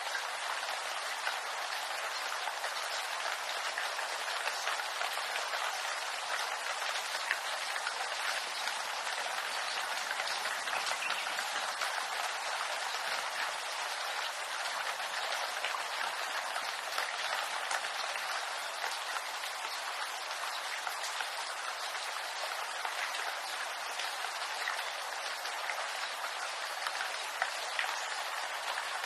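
Steady rain falling on bamboo leaves: an even hiss of many small drop ticks that neither builds nor eases.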